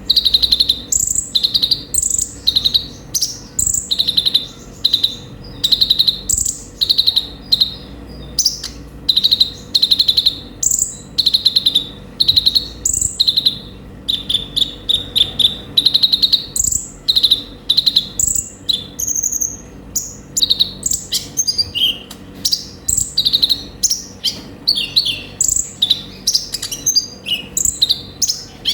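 A kolibri ninja sunbird singing without pause: a fast string of short, high, sharp chirps and twitters, several a second, varied in pitch.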